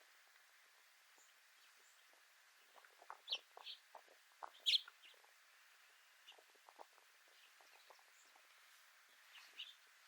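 Birds calling: a few short, high chirps bunched about three to five seconds in and again near the end, over faint scattered clicks.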